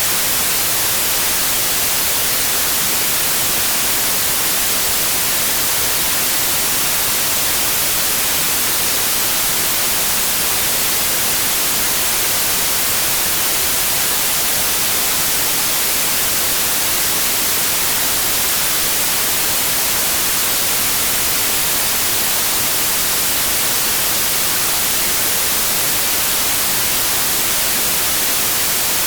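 Steady white noise: an even, unchanging hiss, loudest in the high end.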